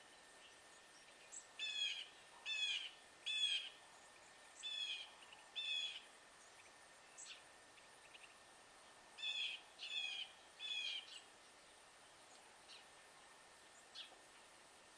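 Wild songbird giving a series of harsh alarm calls at a predator: about five short calls in quick succession, a pause of a few seconds, then three more. A few fainter single chips come between and after.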